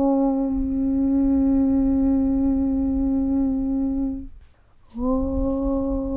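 A long, steady hummed 'Aum' (Om) chant at one low pitch over a low rumble. It breaks off about four seconds in, and after a short pause the next 'Aum' starts.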